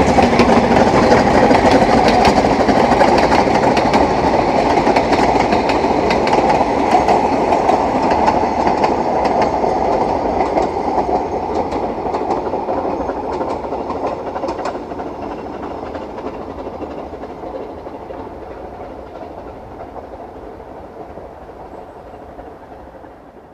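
Narrow-gauge train running past on the rails, wheels clicking over rail joints, the sound fading steadily as it moves away.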